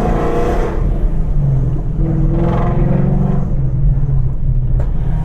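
Ford Mustang GT's 5.0 V8 with Kooks longtube headers running under way, a deep steady exhaust rumble that swells twice, near the start and around the middle.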